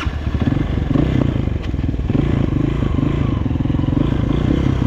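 Honda CRF230F dirt bike's single-cylinder four-stroke engine running under throttle, getting louder right at the start.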